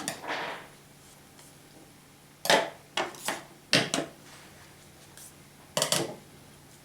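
Hard objects being handled and set down on a tabletop: four short clusters of knocks and clatter, with quiet between them.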